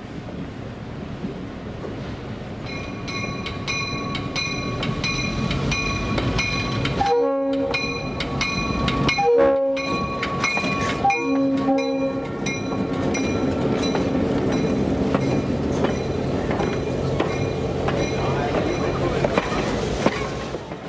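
Diesel locomotive of a Big Trees & Pacific passenger train passing close by, its bell ringing about twice a second and its horn sounding three short blasts about two seconds apart, over the engine's drone. After the horn, the train cars roll past with wheels clicking over the rail joints.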